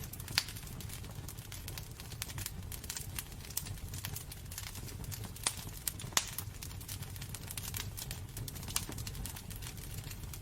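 Wood fire in a fireplace crackling: irregular sharp pops and snaps over a steady low rumble of the burning logs, with louder pops about half a second in and around six seconds in.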